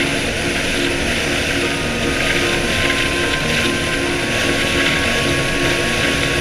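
Engine running steadily under a loud, even rush of wind and motion noise.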